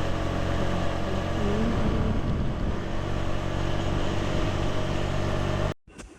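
Honda CG 125's single-cylinder four-stroke engine running steadily while riding, with wind and road noise; the sound cuts off abruptly near the end.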